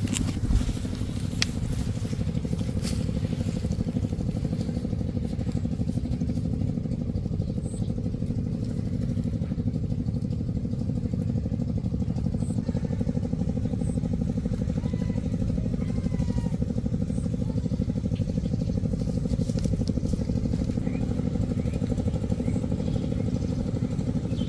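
A small engine running steadily at an even speed, with a low, fast, unchanging beat.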